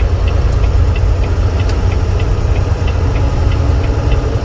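A truck's diesel engine running, heard from inside the cab as a loud, steady low rumble, with a light ticking about three times a second over it.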